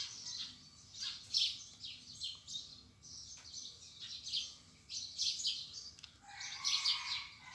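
Small birds chirping, a quick string of short high calls overlapping one another. About six seconds in, a rooster crows.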